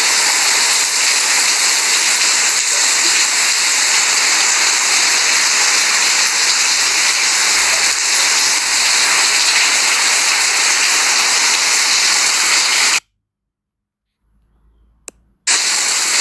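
Steady, loud hiss of heavy hurricane rain. It cuts out completely for about two and a half seconds near the end, then comes back.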